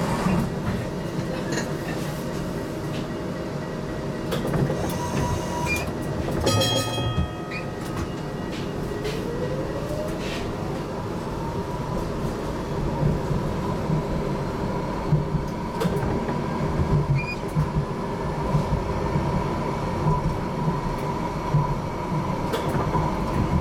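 HTM GTL8 articulated tram running, with a short ringing tone about seven seconds in. Then the traction motor whine rises in pitch for a few seconds and holds steady as the tram picks up speed.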